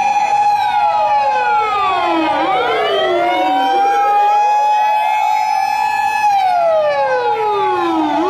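Electronic fire-engine-style siren wailing loudly, with several overlapping tones sweeping down and back up every couple of seconds over a steady high tone. It starts abruptly.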